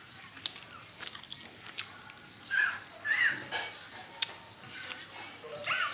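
Caged lovebirds giving short arched chirps, two pairs about half a second apart, one pair midway and one near the end, among scattered sharp clicks.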